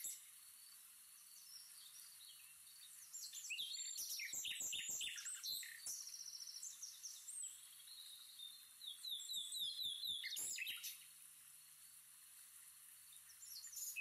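Birds chirping in quick runs of short, high notes. The chirping starts a few seconds in and stops a few seconds before the end.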